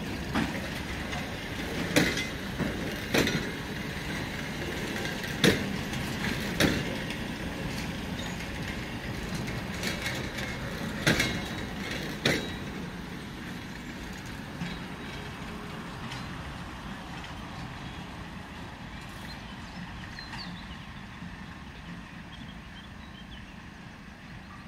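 Freight train of open-top wagons rolling past: a steady rumble of wheels on rail with sharp, loud clanks and knocks every second or two for the first dozen seconds. The rumble then fades as the last wagon moves away.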